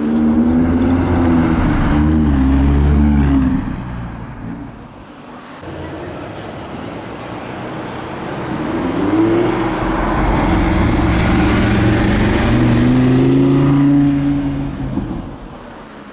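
Audi R8's 5.2-litre V10 engine revving loudly in two stretches, its note bending up and down. The first stretch drops away after about three seconds, and the second swells up about nine seconds in and fades near the end.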